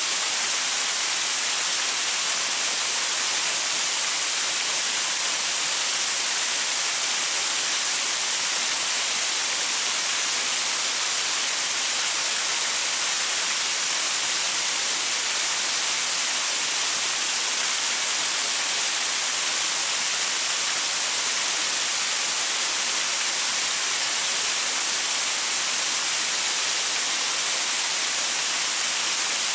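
Waterfall: a steady, even rush of falling water, hissy and bright, with no breaks or changes.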